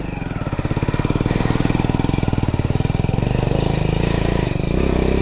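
Single-cylinder motorcycle engine running at low revs, a rapid, even pulse that grows a little louder over the first second.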